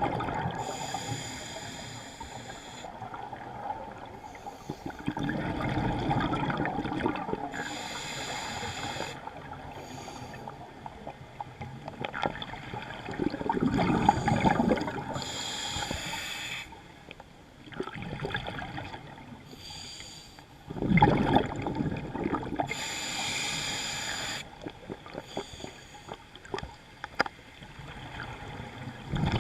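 Scuba diver breathing through a regulator underwater: a hissing inhalation roughly every seven to eight seconds, alternating with the gurgle of exhaled bubbles.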